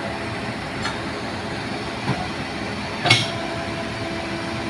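Heavy vehicle engine running steadily, with three short clanks about one, two and three seconds in. The third clank is the loudest, and a steadier engine tone holds on after it.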